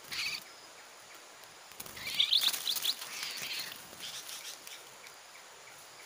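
Small birds chirping: a quick run of short, high notes about two seconds in, with a few fainter calls before and after.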